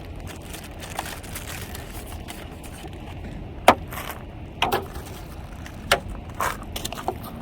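Handling a new windshield wiper blade and its plastic clips: a handful of separate sharp clicks and light rattles, the loudest just past the middle, over a low steady background rumble.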